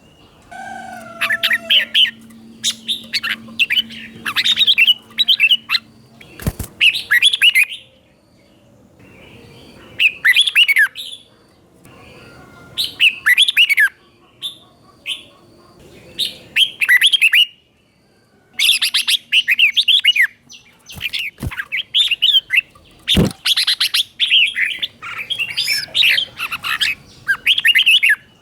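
Red-whiskered bulbul singing bright, quick chirping phrases in repeated bursts with short pauses between them. A few sharp clicks sound about six seconds in and twice past the twenty-second mark.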